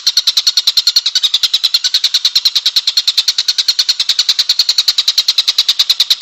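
Songbird singing a fast, steady chattering trill of about ten notes a second, high-pitched and unbroken.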